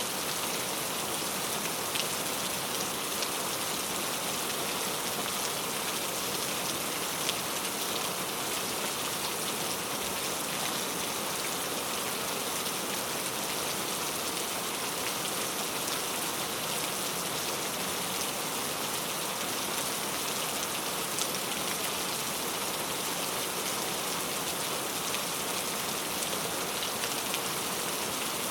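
Steady, even rainfall with a dense hiss of drops and an occasional sharper single drop.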